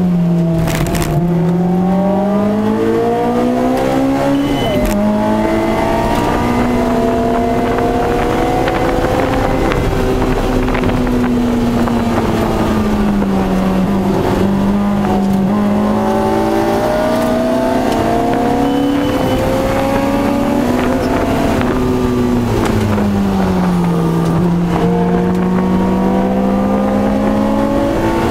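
Honda S2000's four-cylinder VTEC engine heard from inside the cabin while lapping a race track, its pitch climbing under acceleration, falling away when the driver lifts off, then climbing again, several times over. There is a brief break in the engine note about five seconds in.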